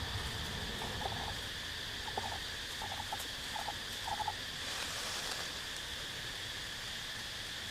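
Rainforest night chorus: a steady high insect drone, with a frog giving short calls of two to four quick pulses about six times during the first half.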